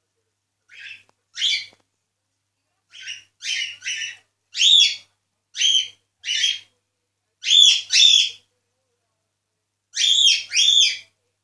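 Cockatiel calling: about a dozen short, high whistled chirps, some bending down in pitch, coming in small groups of one, two or four with brief pauses between.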